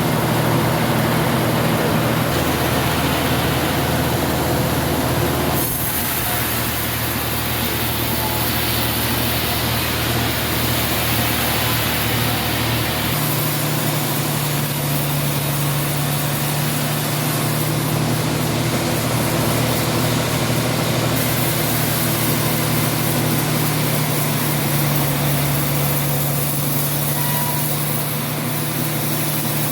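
Sawmill machinery running steadily, a constant engine hum under a loud hiss, its pitch and tone shifting abruptly a few times.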